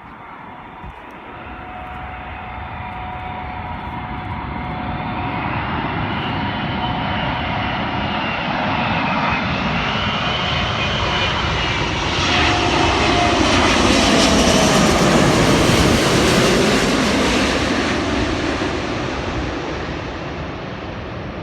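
Airbus A380 on its landing approach, the noise of its four jet engines swelling as it nears, loudest about 15 seconds in, then fading as it goes by. Whining tones in the engine noise drop in pitch as it passes.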